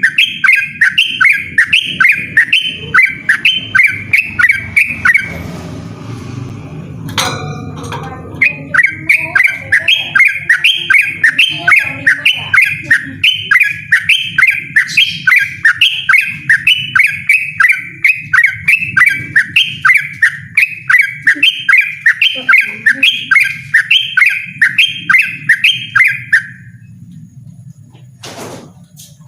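Yellow-vented bulbul singing a loud, persistent run of rapid repeated chirping notes, about three a second. The song breaks off for about three seconds near the start, with a knock in the pause, then carries on until a few seconds before the end.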